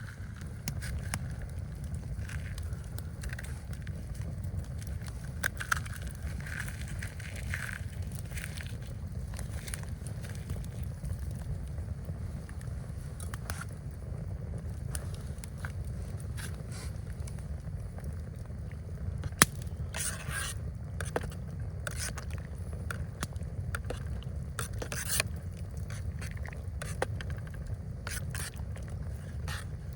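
Steady low rumble of wind, with scattered sharp crackles and scrapes over it and a louder snap about two-thirds of the way in.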